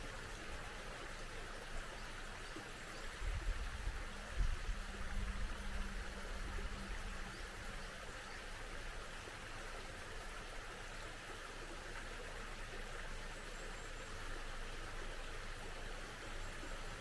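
A small stream running steadily, a continuous rushing hiss of water. From about three to seven seconds in, an uneven low rumble rises over it and then fades.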